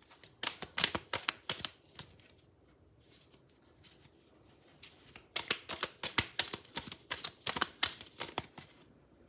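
A deck of oracle cards being shuffled by hand: two bouts of quick, sharp card slaps, the second starting about five seconds in, with quieter handling of the deck between them.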